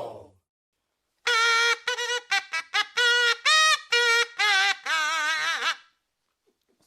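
A short trumpet-like fanfare played as a sound effect: a held note, then a quick run of short notes, ending on a longer note with a wavering pitch. A crowd-like shout fades out just at the start.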